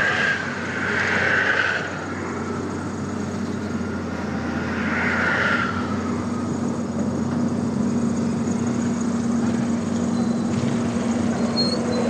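Heavy engine running steadily with a constant low hum that grows a little stronger about halfway through, over a bed of machinery and road noise.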